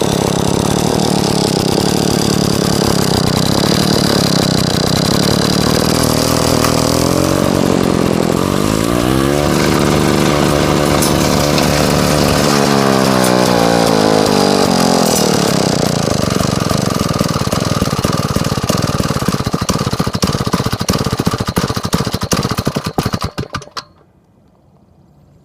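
Clinton two-stroke engine on a vintage Wards Bush Wacker brush trimmer running loudly, revved up and back down a few times, then shut off near the end.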